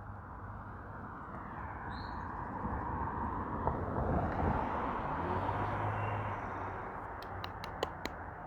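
Outdoor ambience: a broad rushing noise swells and fades, loudest about four seconds in, with a short high bird chirp about two seconds in and a quick run of sharp clicks near the end.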